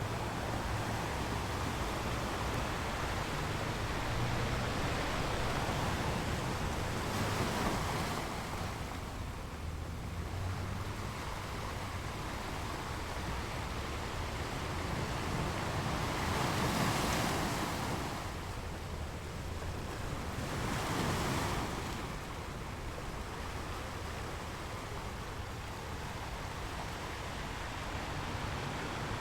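Sea waves breaking and washing on the shore, a steady rushing surf that swells with each wave, about three larger waves near the middle. Wind rumbles on the microphone underneath.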